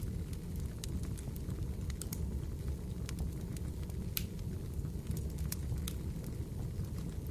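Fireplace ambience: a steady low rumble of burning wood with irregular small crackles and pops.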